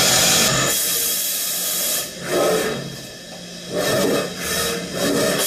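Mazak VCS 530C vertical machining center with a hissing spray inside its enclosure during machining. The hiss breaks off twice briefly and comes back.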